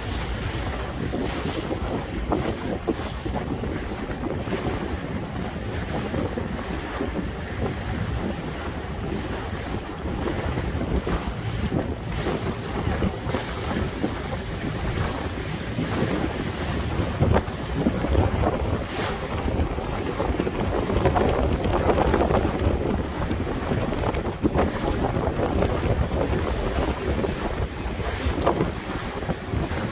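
Water rushing and splashing along the hull of a moving boat, with wind buffeting the microphone; it swells louder a little past the middle.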